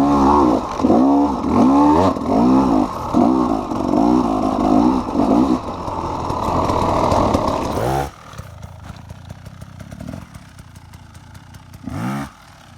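KTM EXC 300 two-stroke enduro engine revving up and down again and again, then dropping to a much quieter idle about eight seconds in, with one short blip of the throttle near the end.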